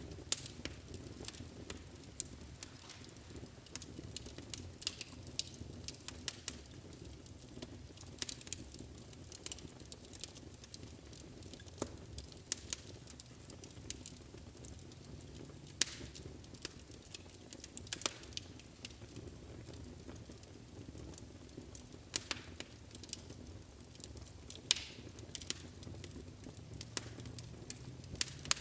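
Wood fire burning in a fireplace: a steady low rumble of flames with irregular crackles and snaps, a few of them sharper, louder pops.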